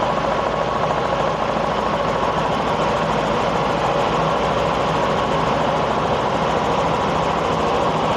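Steady helicopter cabin noise in flight: the engine and rotor drone at a constant level.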